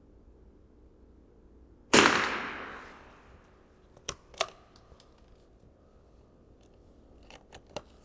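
A single .22 LR rifle shot about two seconds in, its report ringing and fading over about a second and a half. A few sharp metallic clicks and ticks follow.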